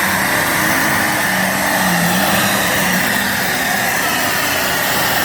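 Pulling tractor's engine running at full throttle under load as it drags the sled down the track, a loud, steady, rasping drone with a wavering pitch.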